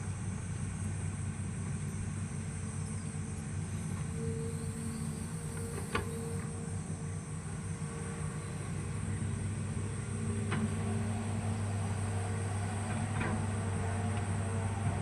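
Hitachi hydraulic excavator's diesel engine running steadily, with a few short knocks.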